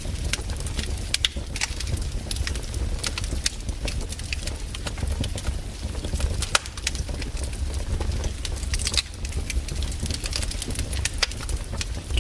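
Campfire burning, its wood crackling with frequent irregular sharp pops and snaps over a steady low rumble.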